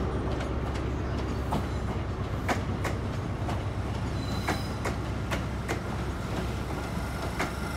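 Eight-car Class 387 electric multiple unit running in slowly: a steady low rumble of wheels on rail, broken by irregular sharp clicks and clacks as the wheels cross rail joints and points.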